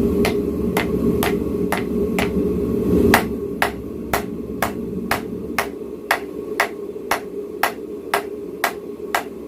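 Hand hammer striking steel on an anvil in steady forging blows, about two a second, some strikes lighter than others. A steady low rushing noise runs loud for the first three seconds, then drops away.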